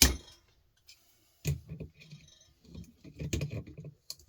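Clicks and knocks of small metal and plastic electronic parts and tools being handled while salvaging scrap from circuit boards. A sharp click comes right at the start and another near the end, with softer clatter between.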